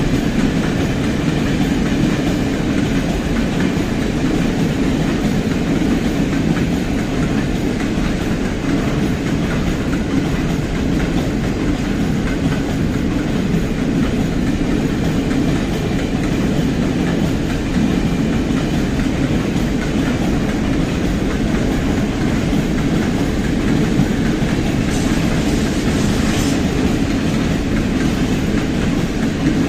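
A train rolling past steadily, its wheels clattering over the rail joints.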